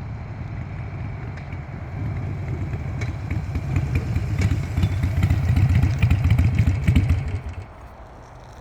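A motor vehicle's engine running with a low pulsing note, growing louder over several seconds and then dropping away suddenly about seven and a half seconds in.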